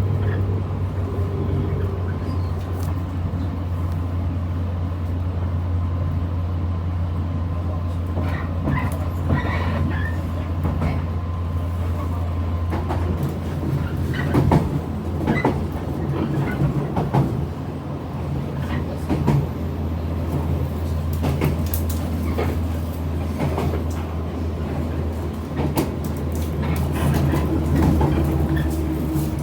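Inside a local electric train carriage: a steady low hum from the train, with scattered clicks and knocks through the middle.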